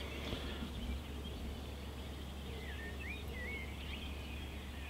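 Faint outdoor birdsong: a few short, sliding chirps and whistled notes around the middle, over a steady low background hum.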